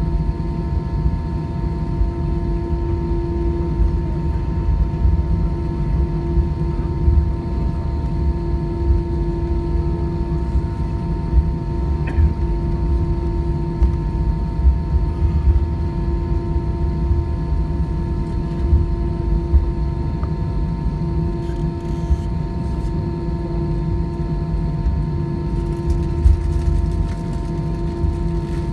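Airbus A320 cabin noise on the ground after landing: a steady low rumble with a constant droning hum from the engines and air system.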